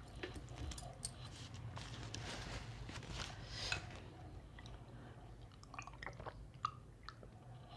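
Faint close-up chewing and mouth noises of a person eating rice and fish curry by hand, with many small wet clicks; in the second half she drinks from a clay water jug.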